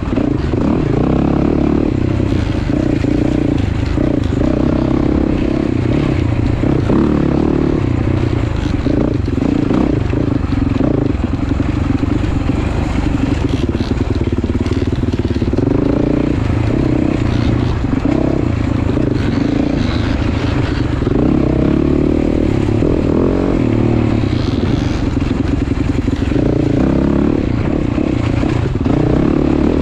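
Motorcycle engine running steadily while riding, its note shifting a little with the throttle.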